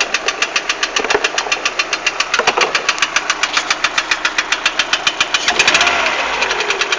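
Lada Priora's 1.6-litre 16-valve VAZ-21126 engine running with a strong, distinct knock, sharp and regular at several strokes a second. The knock comes from the third piston, its skirt broken away on the exhaust side.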